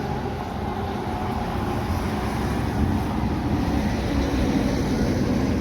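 Heavy truck running: a steady low rumble of engine and road noise, with a faint engine note coming up about halfway through.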